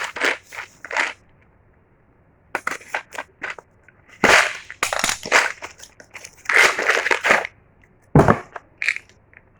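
Packaging being handled and crushed, in irregular bursts of crinkling and crunching, with one sharp thud near the end.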